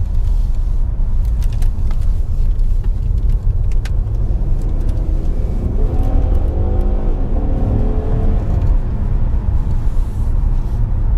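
2016 Ford Taurus SHO on the move with its twin-turbo 3.5-litre EcoBoost V6: a steady low road-and-wind rumble. The engine note comes up about five seconds in as the car pulls and fades again a few seconds later.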